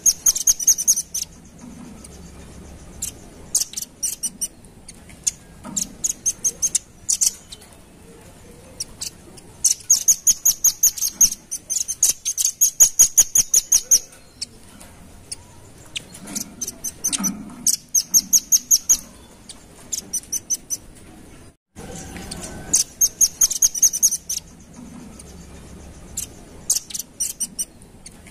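Velvet-fronted nuthatch calling: rapid runs of sharp, high chip notes in trills lasting a second or two, repeated with short pauses. The track breaks off for an instant about three-quarters of the way through and starts the same sequence over.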